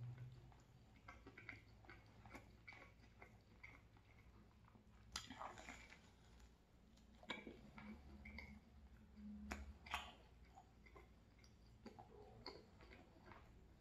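Faint chewing of a slice of chicken pesto pizza: soft wet mouth clicks, with a louder bite into the slice about five seconds in and another burst of chewing near ten seconds.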